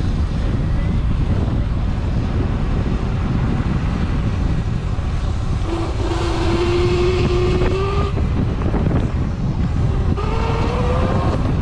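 Wind buffeting the microphone while riding, with an electric dirt bike's motor whining over it. The whine rises in pitch about halfway through and again near the end as the bike accelerates.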